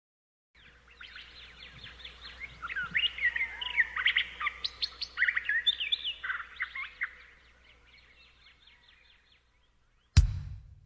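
Many small birds chirping and twittering, busiest in the middle and fading away after about seven seconds. About ten seconds in, a single loud drum hit opens the music.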